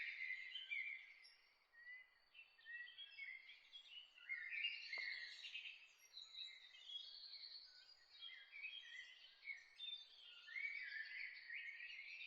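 Several songbirds chirping and trilling at once in a dawn chorus, with one faint click about five seconds in.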